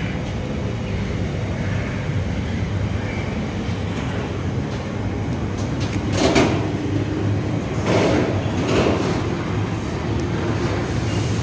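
Container wagons of a freight train rolling past at speed: a steady rumble of steel wheels on rails, with a few louder bursts of clatter about six, eight and nine seconds in.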